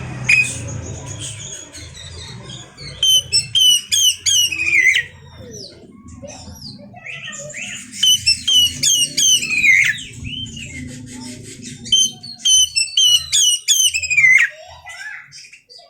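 Oriental magpie-robin (kacer) singing in three loud bursts of rapid, falling whistled notes, with pauses between them. The song is used as a lure to get another magpie-robin to sing. A low hum runs underneath until near the end.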